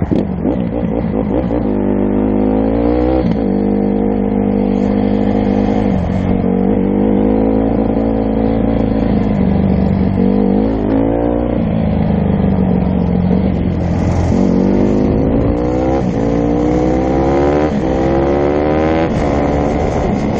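Dirt bike engine accelerating through the gears, its pitch climbing and then dropping at each shift, several times over.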